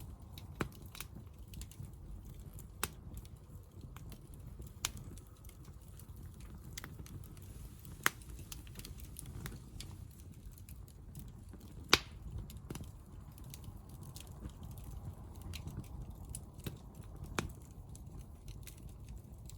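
Hardwood fire burning in a Picogrill: irregular sharp crackles and pops over a low, steady rumble, the loudest pop about twelve seconds in.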